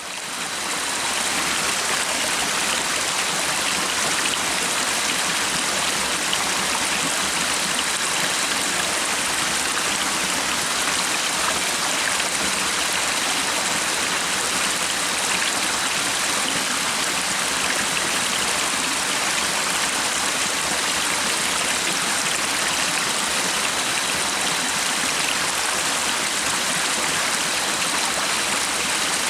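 A stream of running water, flowing steadily, fading in over the first second or so.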